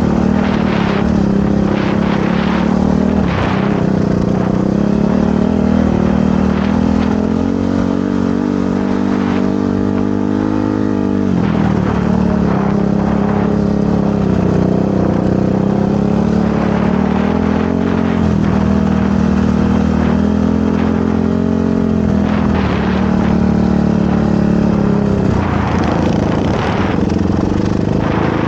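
Motorcycle engine running under way, its revs rising and falling repeatedly as it is ridden, with a brief drop in revs about eleven seconds in.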